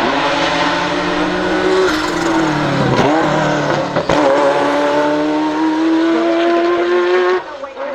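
Ferrari F40 LM's twin-turbo V8 accelerating hard, its pitch climbing, then dipping briefly with two sharp exhaust cracks about three and four seconds in. A long, steadily rising pull follows and cuts off abruptly near the end.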